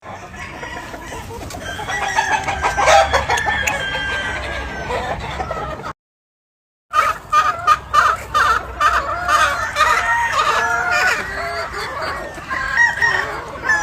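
Gamefowl chickens calling in a yard: roosters crowing over a mix of clucking. The sound drops out completely for just under a second about six seconds in, then resumes with a denser run of calls.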